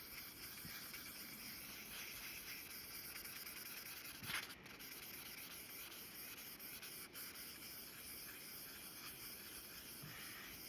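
Faint rubbing of 1500-grit sandpaper on the steel of a vintage Walters axe head, polishing surface rust off the edge, with one brief louder sound about four seconds in.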